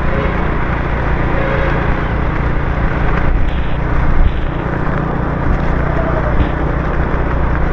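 Steady road noise of a motorbike riding in the rain: the bike's engine running, mixed with tyres hissing on the wet road and passing city traffic.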